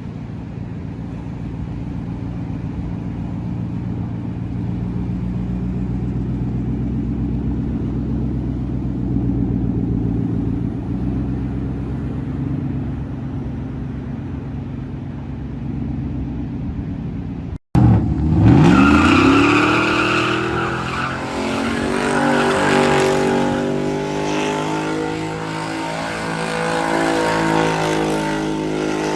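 Pickup truck engines through loud aftermarket exhaust. First a steady low rumble that slowly builds. Then, after a sudden cut, an engine is revved hard, its pitch climbing fast and holding high with a harsh upper whine.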